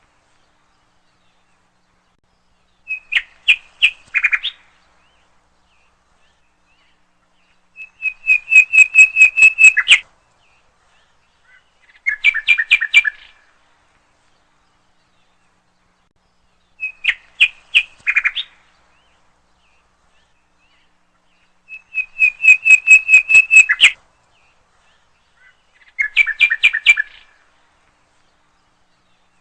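A songbird singing in short phrases of rapid repeated chirping notes, one phrase every four or five seconds with silence between.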